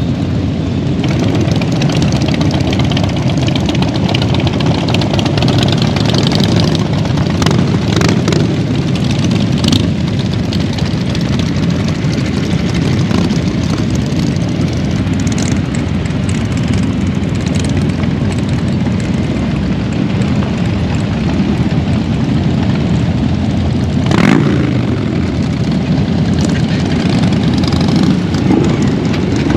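Motorcycle engines running steadily, with a few sharp louder moments, the strongest about 24 seconds in.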